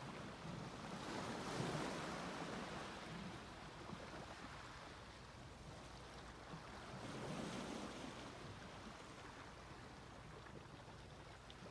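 Sea waves washing onto a beach: faint surf noise that swells twice, once about a second and a half in and again around seven seconds in, over a steady low rumble.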